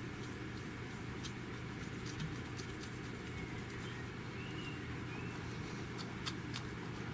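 Scattered light clicks and faint scratches of fingers handling a phone and a plastic screen protector film, over a steady low hum.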